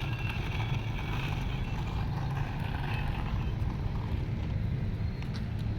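A steady low rumble, with a few faint clicks near the end.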